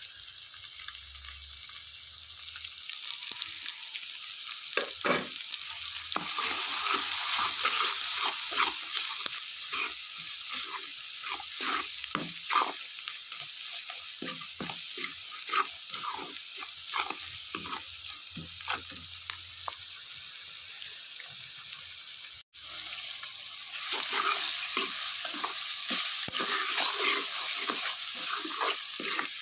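Spice masala and onion frying in hot oil in a metal pot, a steady sizzle, with a steel spoon stirring and scraping against the pot in many sharp short strokes. The sizzle gets louder a few seconds in, and the sound cuts out for an instant about three-quarters through.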